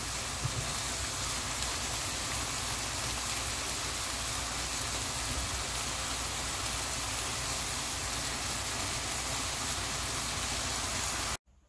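Oyster mushrooms, beef and vegetables sizzling in a hot wok as they are stir-fried with a wooden spatula: a steady frying hiss that cuts off suddenly near the end.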